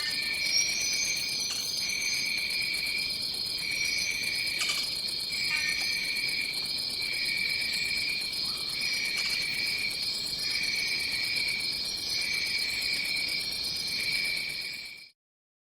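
A jungle insect chorus: a steady high-pitched drone, with a second, lower trill that pulses on and off about once a second. It fades out into silence near the end.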